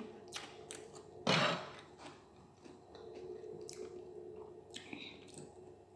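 A person chewing food close to the microphone: scattered short crunches and mouth smacks, the loudest a brief crunch about a second in, over a faint steady hum.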